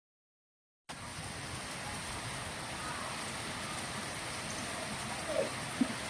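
Steady rushing water noise, like heavy rain or flood runoff, cutting in abruptly about a second in after silence, with two brief faint sounds near the end.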